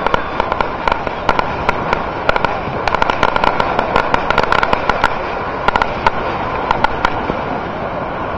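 Fireworks crackling: many sharp pops in quick, irregular succession, thickest in the middle and dying away about seven seconds in, over a steady background of voices and outdoor noise.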